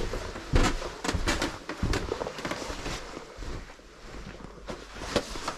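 Handling noises while gathering things: a few short knocks and clatters with rustling in between.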